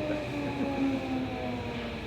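Tokyo Metro Series 16000 train heard from inside the car, its VVVF inverter and traction motors whining in several tones that fall steadily in pitch as the train brakes toward a station stop, over the rumble of the wheels on the rails.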